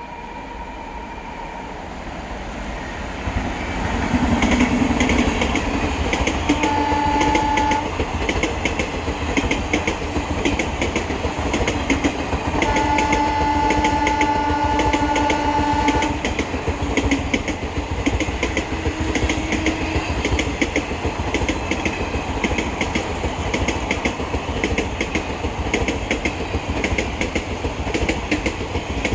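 Train running close by on Indian Railways, its wheels clattering over the rail joints and growing louder over the first few seconds. A horn sounds briefly about seven seconds in, then again longer for about three seconds from around thirteen seconds.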